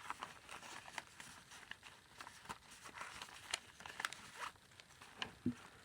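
Faint rustling and crinkling of paper pages, an envelope and tucked cards being handled and turned in a junk journal, with scattered small ticks.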